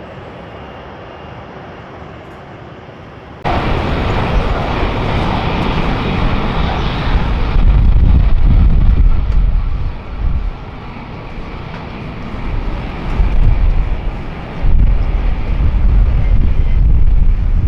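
Jet airliner engine noise: a steady hum that jumps abruptly much louder about three seconds in, then a heavy low rumble that swells and dips as the aircraft passes close by.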